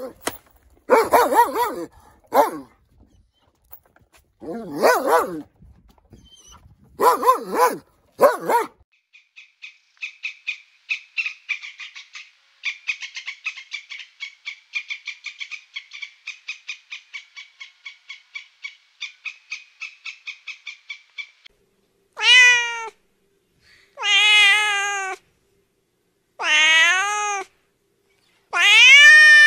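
A golden retriever puppy barking in several short bursts. Then a squirrel's rapid chattering, about eight quick clicks a second, which runs for around twelve seconds. Then a cat meowing four times, each meow about a second long.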